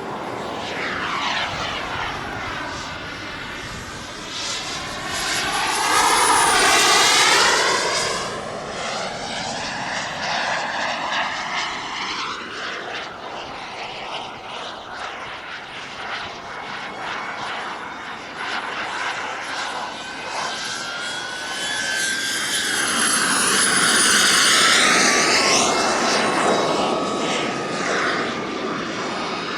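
Model jet turbine engine whining steadily as the RC jet flies, with two loud fly-bys, a quarter and three quarters of the way through, each sweeping down in pitch as the jet passes.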